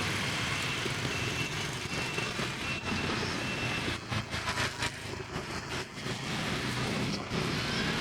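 Street traffic noise with vehicles passing. A faint high beep repeats in the first few seconds.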